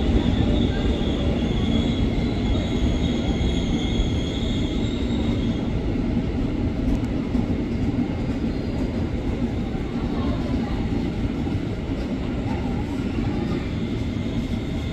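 KRL commuter electric train running through the station: a steady rumble of wheels on the track, easing slowly, with a high squealing tone over it that fades out about five seconds in.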